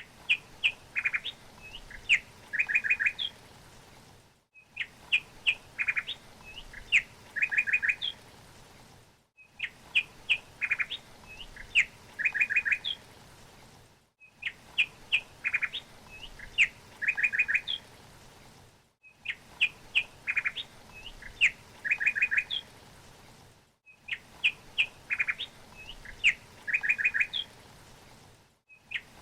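A songbird's chirping song: a short phrase of chirps ending in a quick run of notes, the same recording looped about every five seconds with a brief drop to silence at each join, over a faint steady hiss.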